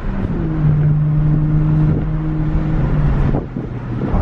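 Car driving on the road: low rumble of engine and road noise, with a steady engine drone held for about two and a half seconds.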